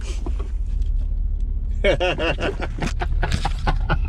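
Steady low rumble of a vehicle driving, heard from inside the cabin, with a short vocal sound about two seconds in and a few light clicks near the end.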